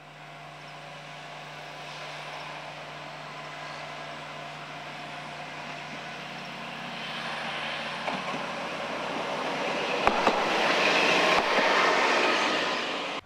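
Diesel railcar approaching along the track, its engine and running noise growing steadily louder, with a couple of sharp wheel clicks near the end as it comes close.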